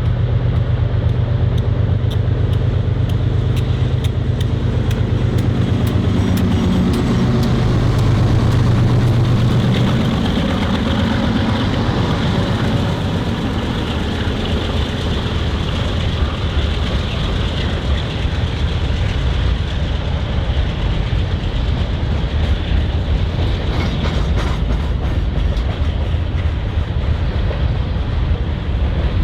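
A diesel freight train passing. For about the first ten seconds the locomotives' engines run with a steady low drone, and then the freight cars roll by with a continuous rumble and a faint clickety-clack of wheels over rail joints.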